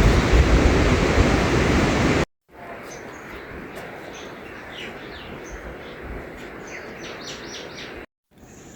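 A loud steady rushing noise cuts off suddenly about two seconds in. After a short break, birds chirp repeatedly over a much quieter steady hiss, and that sound cuts off near the end.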